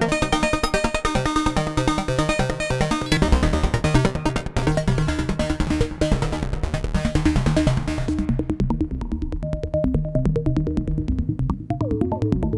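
Eurorack modular synthesizer: a Braids-style macro oscillator playing a fast sequence of short, enveloped notes through a Mimeophon delay. A deep low part comes in about three seconds in, and the bright top end drops away about eight seconds in, leaving a duller tone.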